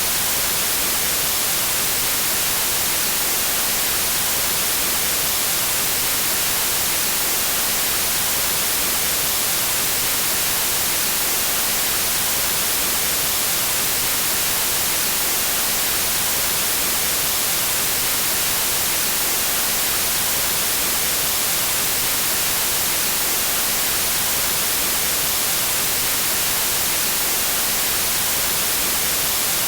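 Steady white noise: an even, unchanging hiss spread across all frequencies, strongest in the highs.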